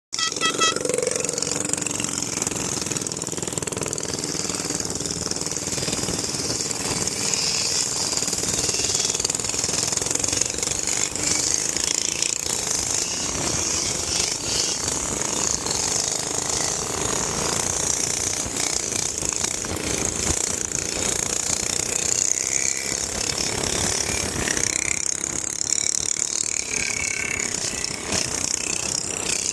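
Minibike engine running steadily with a rapid pulsing beat and a lot of hiss.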